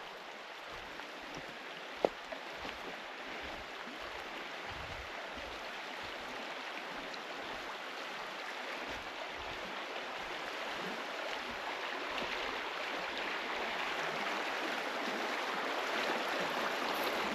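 Rushing water of a small forest river, a steady flowing sound that grows gradually louder. A single sharp click about two seconds in.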